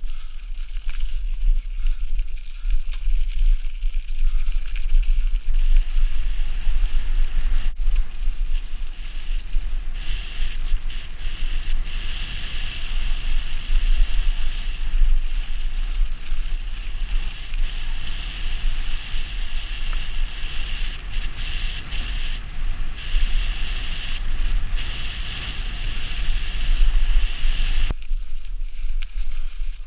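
Mountain bike riding along a dirt singletrack trail: tyre, chain and frame rattle over a heavy wind rumble on the action-camera microphone. From about ten seconds in a steady high whirring hiss joins, cutting off abruptly near the end.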